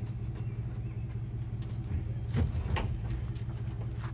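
An SUV's engine idling steadily, with two short knocks a little past halfway through.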